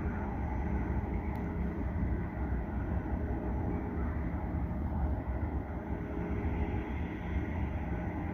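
Train running through the station: a steady low rumble with a faint high whine over it.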